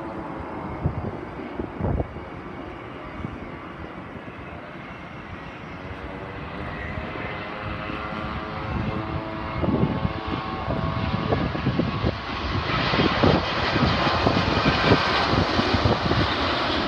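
Airliner engines at an airport: a whining tone that fades over the first few seconds, then a rushing engine sound that grows from about ten seconds in and swells loudest near the end as an aircraft comes closer.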